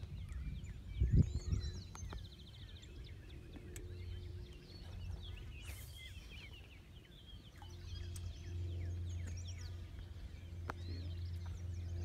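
Several birds singing and chirping over a steady low rumble, the rumble growing louder in the second half.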